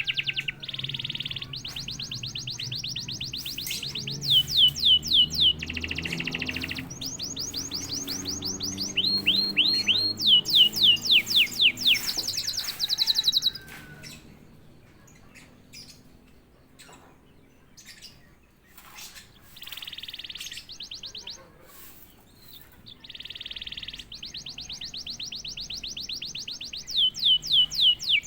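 Domestic canary singing: fast rolling trills and rapid runs of descending whistled notes, loud for about the first half. Near the middle it drops to a quieter stretch with scattered faint notes, then returns with shorter trill phrases toward the end.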